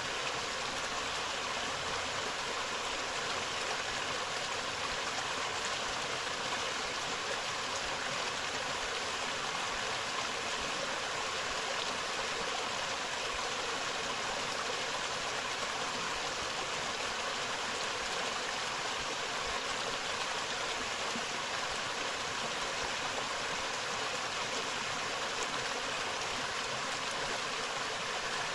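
Forest river flowing over rocks: a steady, even rush of water that does not change.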